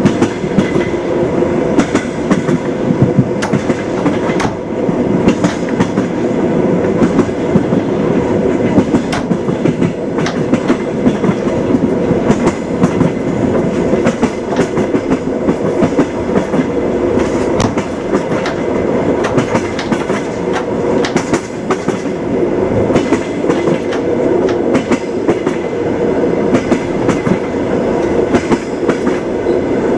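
Train wheels clattering over the rail joints as the train runs along, a steady rumble broken by many sharp knocks.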